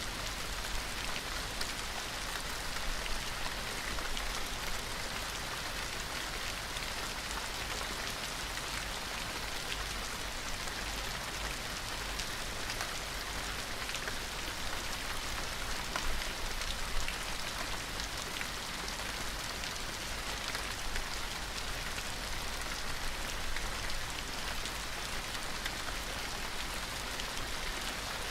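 Steady rain falling, a constant hiss of rainfall with many small drop ticks.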